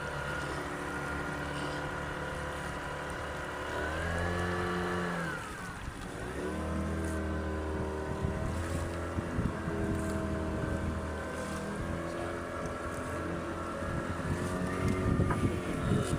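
A boat's engine running steadily under way. About four seconds in the revs rise, then drop sharply a second and a half later before picking back up and settling. A rougher, uneven noise builds near the end.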